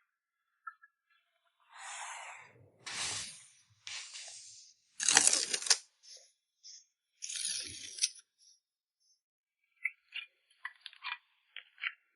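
Packing materials being torn and handled: five short tearing, crinkling bursts, the loudest about five seconds in, then a run of small clicks and taps near the end.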